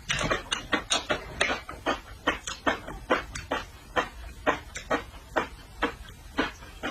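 Close-miked chewing of seafood: wet mouth smacks and clicks, about three to four a second.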